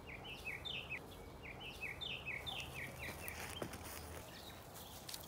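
A bird calling a quick series of short chirps, each sliding down in pitch, for about three seconds, then faint outdoor background.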